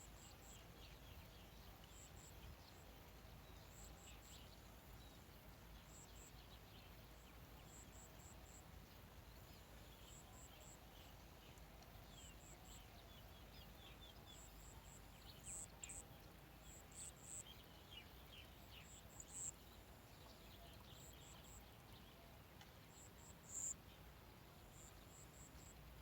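Faint outdoor ambience with insects chirping: very high, short chirps in quick groups of two to four, repeating every second or two, a few louder ones in the second half, over faint scattered bird twitters.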